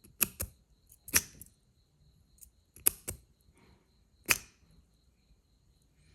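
Sharp metallic clicks from a solid-brass lighter being handled and worked: two quick pairs of clicks, and two single clicks each followed by a short scrape.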